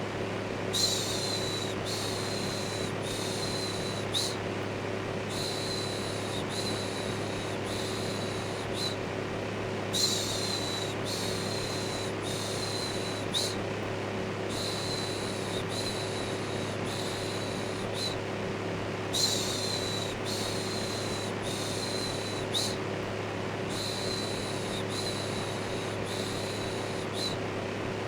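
Electric fan running with a steady low hum and whoosh, overlaid with a repeated 'shhh' shushing. The shushes come about one a second in runs of about four, with short pauses between runs.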